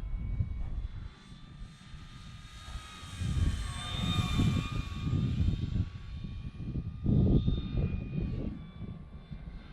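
Electric RC model Hawker Hurricane's motor and propeller whining in flight, swelling and bending in pitch as it passes about four seconds in. Heavy wind buffeting on the microphone throughout.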